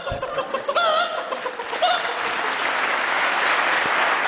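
A man vocally imitating a hen's cackle after laying an egg: a few squawks with bending pitch in the first two seconds, then an audience applauding.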